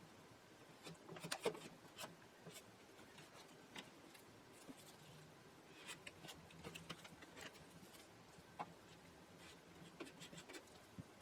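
Faint, scattered scraping and light ticks of Bondo body filler being scooped and mixed with a spreader.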